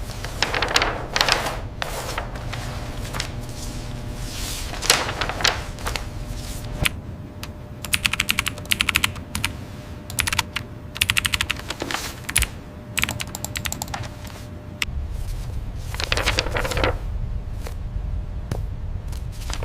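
Several short bursts of rapid light clicking, with swishing and rustling handling sounds in between.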